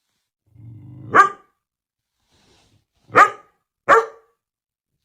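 A dog gives a short low growl that runs into a bark, then barks twice more, about three and four seconds in.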